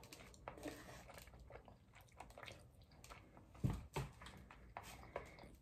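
Faint chewing with scattered soft mouth clicks and smacks, the loudest pair a little past halfway.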